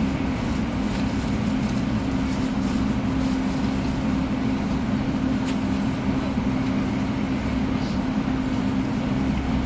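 Running noise of a 300 Series Shinkansen heard from inside the passenger car: a steady rush and rumble with a strong low hum and a few faint clicks.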